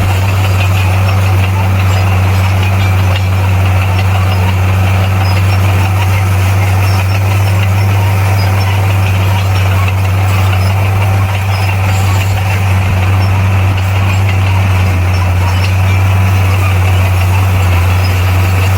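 Heavy earthmoving machine's diesel engine running steadily with a deep, unchanging drone.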